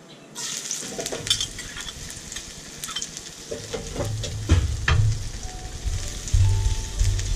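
Hot oil in a metal wok starts sizzling suddenly as chopped aromatics are tipped in, about half a second in. A metal spatula then stirs them, with a few sharp scrapes and knocks against the wok.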